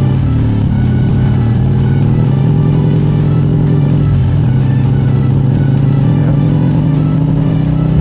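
Harley-Davidson Road King Special's V-twin engine running steadily while riding, with background music mixed over it.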